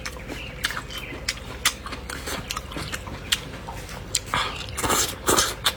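A person chewing food close to the microphone, with wet clicks and lip smacks throughout and louder, noisier mouth sounds near the end.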